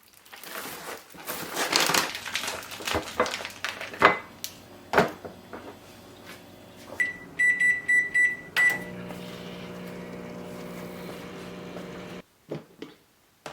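Packaging rustling and a few knocks, then an electric cooking appliance beeps about five times and starts running with a steady hum that cuts off suddenly.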